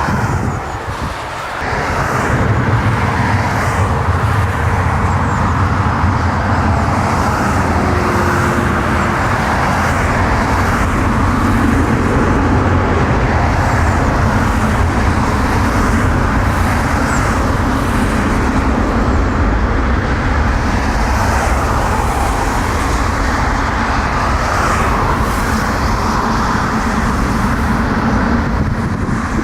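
Jet airliner engines running loud and steady, a continuous deep rumble with a rushing roar on top, swelling about two seconds in and then holding.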